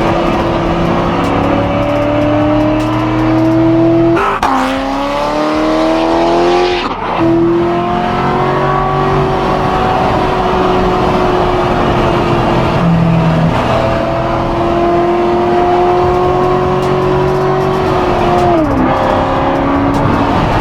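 An 840-horsepower C7 Corvette's V8 accelerating hard through the gears: the revs climb, a quick gear change about four seconds in, another climb, and a second break about seven seconds in. It then runs at a steady, slowly easing engine speed before the revs fall away sharply near the end.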